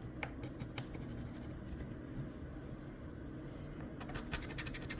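Scratch-off lottery ticket being scratched: a few light scrapes at first, then a quick run of rapid scratching strokes from about four seconds in.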